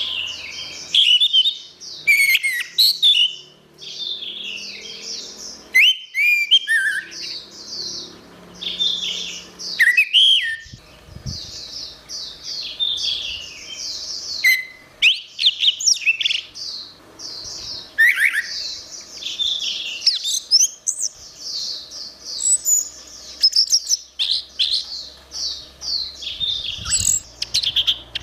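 Orange-headed thrush singing a long run of rapid, varied warbling and chattering phrases, broken by a few brief pauses.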